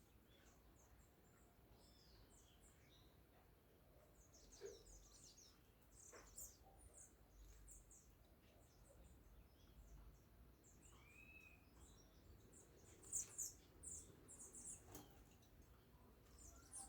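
Many small birds chirping and calling, faint, with short high chirps scattered throughout and a busier, louder run of them about three-quarters of the way through.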